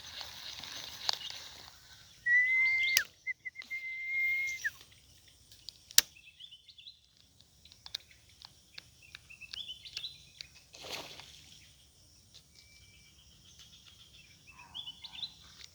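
Birds calling: a steady high whistle, broken once, for a couple of seconds, then short stepped chirps that come and go. A few short clicks and one sharp tap about six seconds in.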